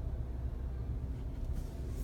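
Steady low rumble inside a moving car's cabin, with a faint brief hiss near the end.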